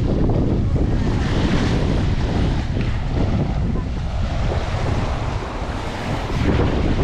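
Wind buffeting the microphone over surf washing onto a sandy beach, a dense rumbling noise that dips briefly near the end.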